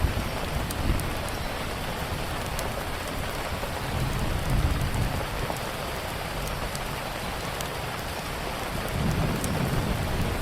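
Steady rain with low rumbles of thunder swelling about four seconds in and again near the end, over scattered sharp crackles from a wood fire.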